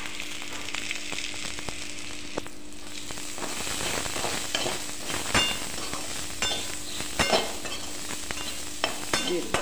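Sprouts and onion sizzling as they fry in a metal kadhai. A metal slotted spatula scrapes and clicks against the pan as they are stirred, more often in the second half.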